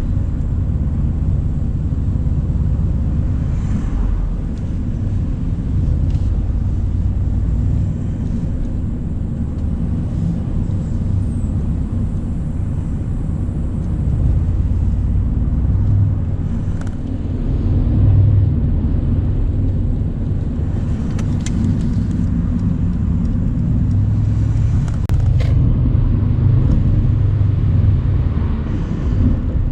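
Mercedes-AMG C63 Cabriolet's twin-turbo 4.0-litre V8 running while driving on a country road with the top down, a steady low engine note over road noise that swells briefly a little past halfway.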